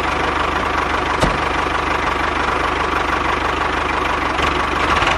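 Small engine of a homemade mini tractor idling steadily, with rapid even firing pulses. There is a single sharp click about a second in.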